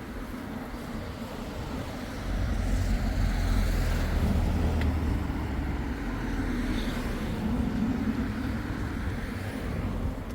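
A road vehicle going by close at hand, its engine and tyre rumble swelling from about two seconds in and staying loud until near the end.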